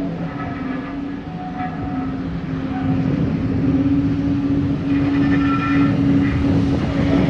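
Railway locomotive running, a steady low tone over a dense rumble, growing louder about three and a half seconds in.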